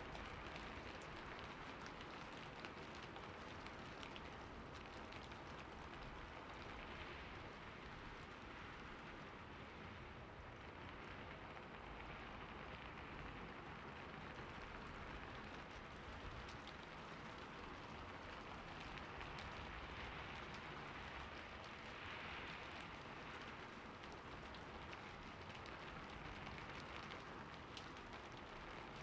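Steady rain falling on a roof: an even patter with scattered individual drop ticks.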